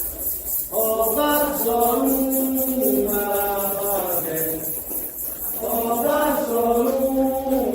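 Voices singing a Candomblé chant in long held phrases that step between notes, with a quick, even high-pitched percussion pattern underneath.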